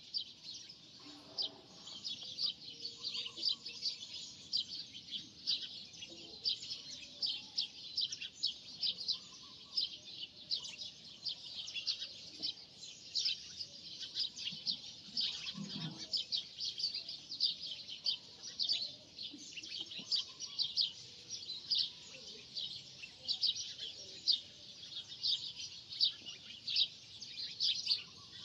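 Small birds chirping, a dense, irregular stream of short high chirps.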